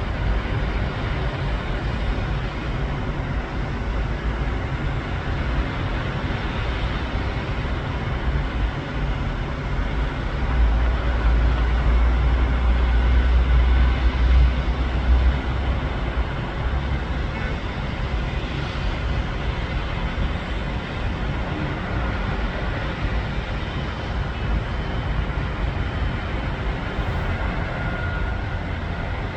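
Sea waves washing onto the beach: a steady rushing noise with a deep rumble underneath, swelling louder for several seconds around the middle.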